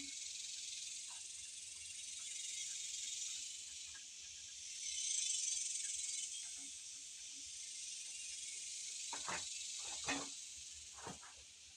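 Insects outdoors buzzing in a high, hissing chorus that swells and fades, with a few light knocks about three-quarters of the way through.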